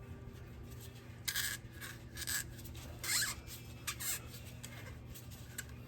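Hands working fuel-line parts: four short scraping rubs about a second apart, one with a brief squeak, like rubber hose being worked on a fitting.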